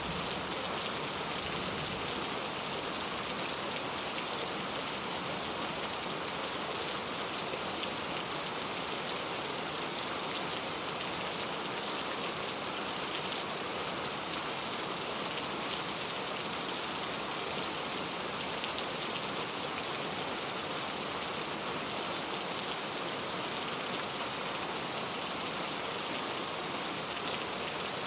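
Steady rain falling on a surface, an even hiss of dense drops with fine scattered patters.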